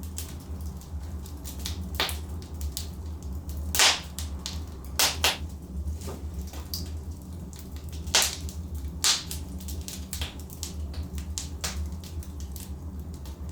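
Logs burning in a fireplace, crackling: irregular sharp pops and snaps over a steady low rumble of the fire, with the loudest pops about 4, 5 and 8 seconds in.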